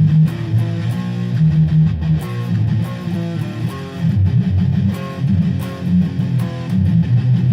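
Guitar in drop C sharp tuning playing a fast riff of power chords and barre chords in quick downstrokes, the chords changing every half second or so.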